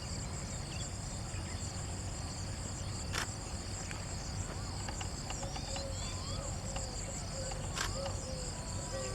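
Steady high-pitched insect chorus, crickets or similar, with a low rumble underneath. Two sharp clicks come about 3 and 8 seconds in, and small chirping calls join in the second half.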